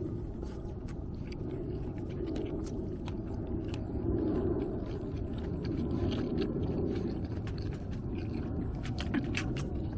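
Wood campfire burning with scattered sharp crackles and pops over a steady low rumble.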